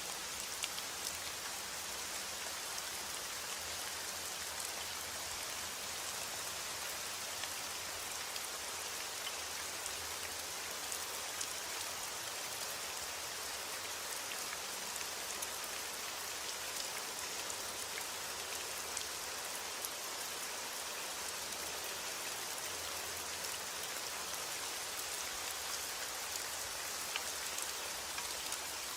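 Steady rain: an even hiss with many small drop ticks scattered through it. There is no thunder.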